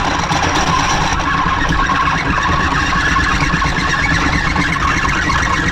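An engine running steadily under load, with a constant high whine over the motor noise.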